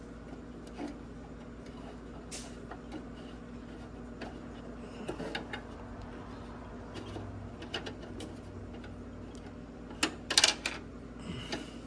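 Scattered small clicks and taps as a T20 Torx driver works a screw out of a car headlight housing, with a louder cluster of sharp clicks about ten seconds in, over a steady low hum.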